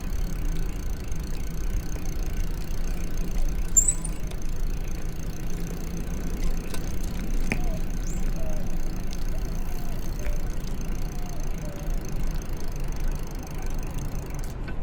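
Steady low rumble of wind and road noise while riding a bicycle, with a faint, steady high-pitched whine and a brief high chirp about four seconds in.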